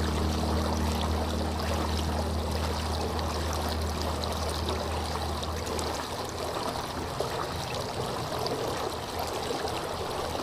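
Flowing water, a stream trickling and splashing steadily. A low held tone underneath drops away about halfway through.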